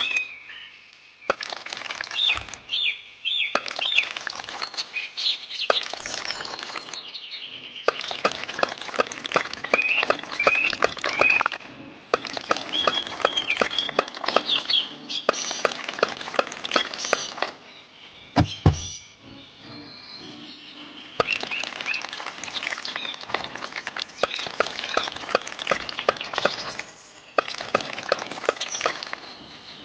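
Rapid small clicks and taps of miniature bricks and tools being worked, in runs with short pauses, while birds chirp.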